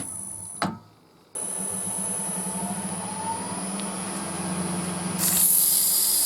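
Wood lathe running, with a turning tool cutting the spinning chestnut blank to round its end over. It is briefly cut off about a second in. Near the end a louder hiss takes over.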